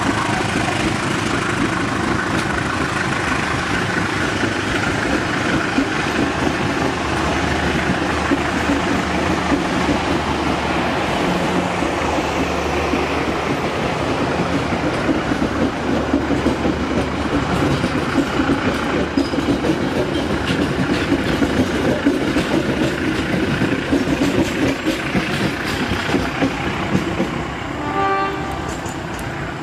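Passenger train carriages rolling along the rails out of the station, a steady rumble with dense wheel-on-rail clatter. A brief pitched tone sounds near the end, and the rumble then eases.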